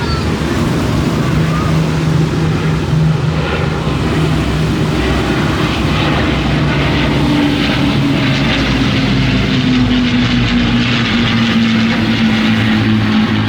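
Engine of a low-flying airshow plane passing overhead, loud and steady, its pitch falling gradually as it goes by.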